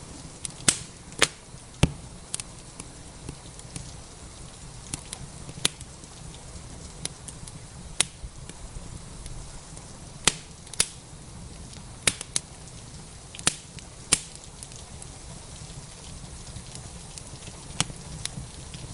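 Wood fire crackling in a fireplace, with about a dozen sharp, irregular pops over a steady hiss of rain.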